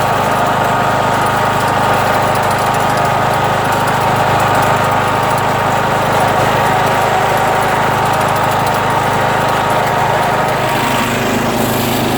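John Deere tractor engine running steadily, its note shifting slightly near the end.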